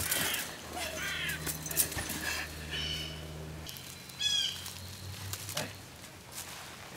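Birds calling: several short calls, each falling in pitch, about one a second, over a low steady hum that stops about halfway through.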